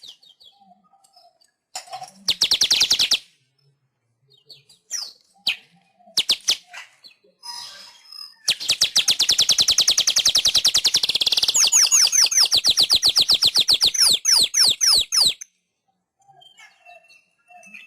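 Manyar (weaver bird) singing: scattered short chirps and chatter, then a long, loud, rapid trill that breaks into quick down-slurred notes at about eight a second and stops abruptly a couple of seconds before the end.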